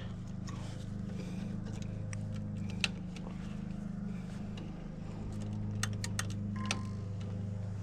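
Steady low mechanical hum from a gas furnace running as it starts a heat cycle, with a few light clicks and rattles of tools and wiring being handled.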